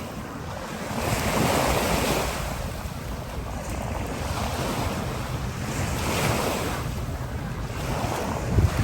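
Small sea waves washing onto a sandy beach, swelling and falling back every few seconds, with wind buffeting the microphone.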